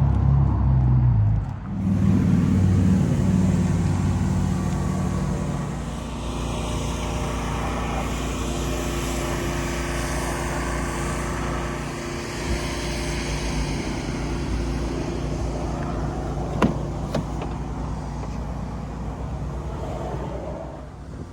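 Chevrolet Silverado 2500 HD's 6.0-litre V8 running, louder in the first few seconds and then settling to a steady note from about six seconds in. There is a single sharp click about two-thirds of the way through.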